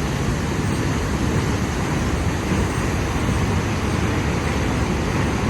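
Steady rushing roar of a large waterfall and the river in the gorge below.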